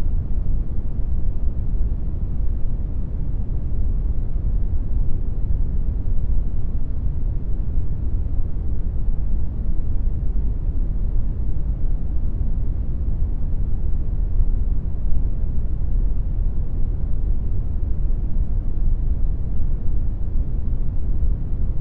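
Steady brown noise generated in Audacity: a constant, even rumbling hiss, strongest in the low end and fading smoothly towards the top.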